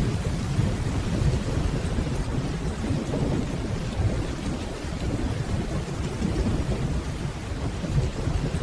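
Steady rainfall over a continuous low, deep rumble of distant rolling thunder.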